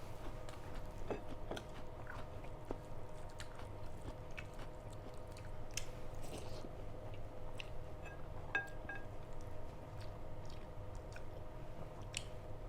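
A person chewing and biting food, with scattered small crunches and mouth clicks, over a steady faint hum.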